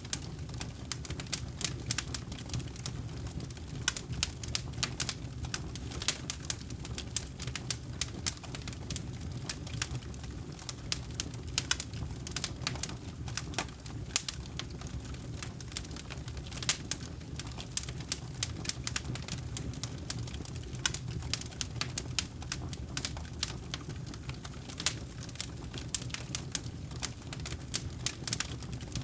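Wood campfire crackling: irregular sharp snaps and pops, many a second, over a steady low rumble of the flames.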